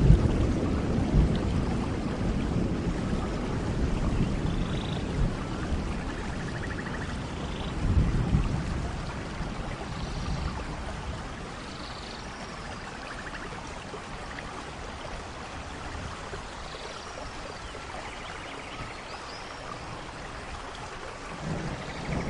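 Steady rain falling in a forest, with rolling thunder: a rumble dying away early on, another swelling about eight seconds in, and a new one building near the end.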